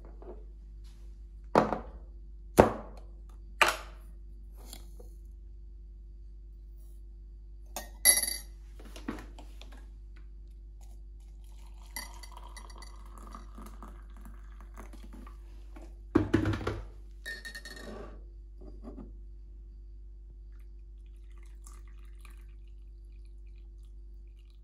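A scattered series of sharp knocks and clinks over a steady low hum, three single knocks near the start and two louder clattering bursts about halfway and two-thirds through, some of them ringing briefly.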